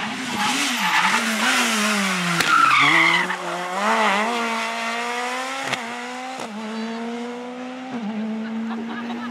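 Rally car engine pulling away after passing close, its pitch wavering through a bend and then climbing in steps as it shifts up through the gears, growing fainter. A brief tyre squeal about three seconds in.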